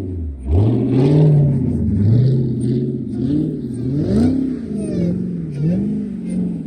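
Dodge Hellcat's supercharged 6.2-litre V8 revving hard and falling back again and again, its pitch climbing and dropping about every second, as the car is drifted on snow.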